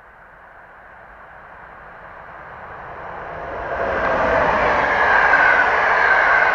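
Electric-locomotive-hauled passenger train approaching and passing close by: the sound of wheels on rail grows steadily, turns suddenly loud as the locomotive goes past about four seconds in, then stays loud as the coaches roll by.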